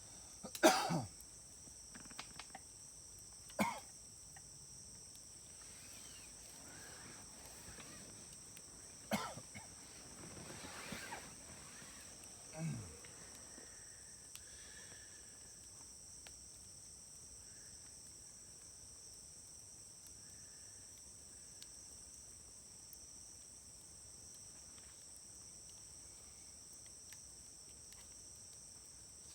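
Wood fire in a Uniflame fire grill crackling, with sharp pops about a second in and again at about 4, 9 and 13 seconds, a couple of them sliding down in pitch; the loudest is the first. A steady high cricket chirring runs under it.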